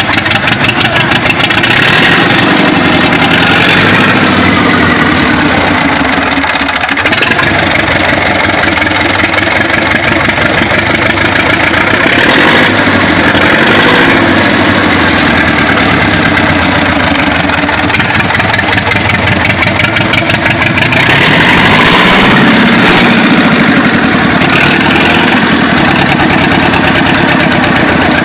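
ZIL truck engine running loud on a service test start, its speed rising and falling several times.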